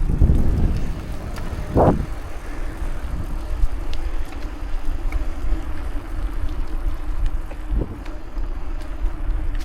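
Riding a bicycle: wind rushing over the microphone with rolling tyre and road noise under a steady low hum, broken by a few short louder gusts or bumps.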